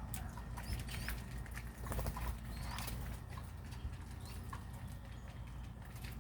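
Small birds giving a few short chirps among scattered light clicks and taps, over a steady low hum.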